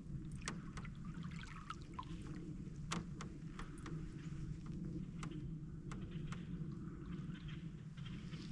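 Canoe paddle strokes: the blade dipping and pulling through the water with soft swishes about a second in and again near the end, amid scattered drips and small clicks and knocks from the paddle and hull, over a steady low rumble.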